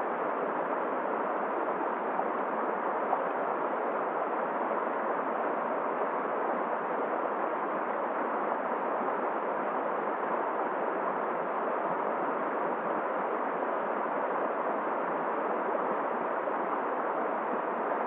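Steady, even rush of a flowing river mixed with wind.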